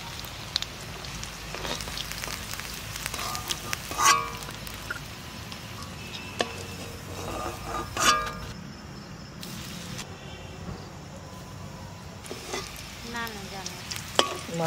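Puli pitha frying in ghee in a metal wok, a steady sizzle. A metal spatula clanks against the pan a few times, loudest about 4 and 8 seconds in, as the fried dumplings are lifted out.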